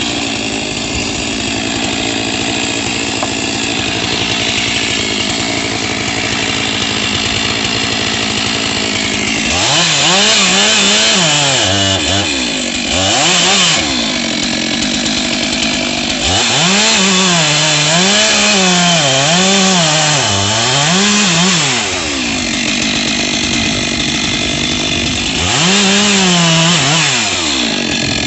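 Chainsaw running steadily at first, then brought up to high revs three times. The pitch dips and recovers again and again within each run, and it drops back between the runs.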